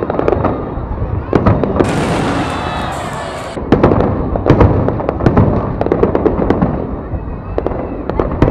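Fireworks display going off: a run of sharp bangs and pops, with a stretch of hissing crackle about two seconds in that lasts under two seconds.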